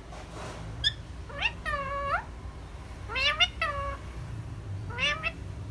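A parrot mimicking a cat's meow three times, the first two calls drawn out and the last one short, with a brief high chirp just before the first.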